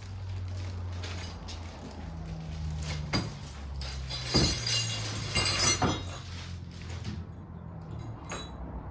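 Metal parts and tools clinking and knocking as they are handled, with a rustling, clattery stretch in the middle, over the steady low drone of nearby highway traffic.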